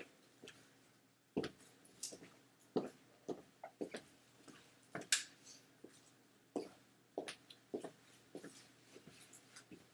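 Light clicks and taps, about a dozen, coming at irregular intervals over a quiet room background.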